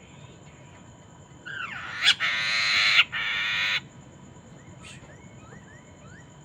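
Poksay mandarin (laughingthrush) giving a loud, harsh, raspy call of about two seconds, broken briefly halfway through, then a few faint short rising whistles.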